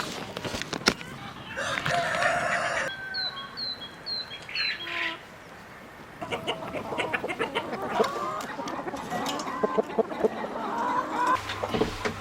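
Chickens clucking and calling, with one louder, longer call about two seconds in, a few high short chirps after it, and a busy run of short clucks through the second half.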